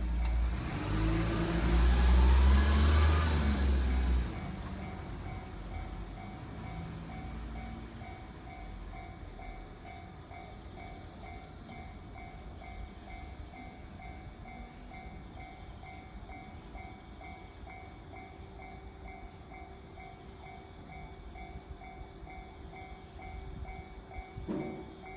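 An electric train passes over a Japanese level crossing in the first four seconds: a loud rumble with a rising motor whine. The crossing's warning bell rings steadily in a rapid, even two-tone repeat throughout and keeps going after the train has passed.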